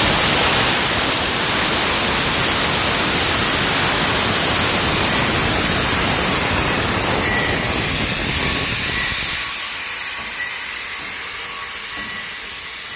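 Steam locomotive venting steam with a loud hiss: the 1929 C-class Heisler geared engine, Cass Scenic Railroad No. 6. About nine seconds in the deeper rush cuts out, and the remaining hiss fades away.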